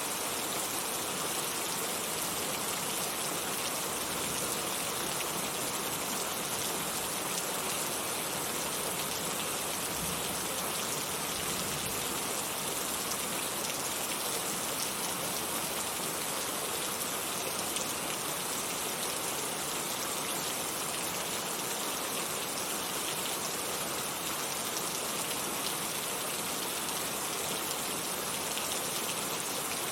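Heavy rain falling steadily: a dense, even wash of raindrops with no let-up or change in strength.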